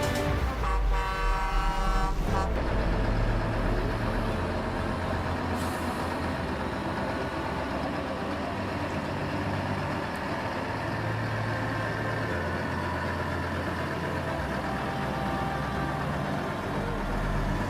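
A truck horn sounds for about two seconds near the start, over the running of a heavy truck engine, which carries on steadily after the horn stops.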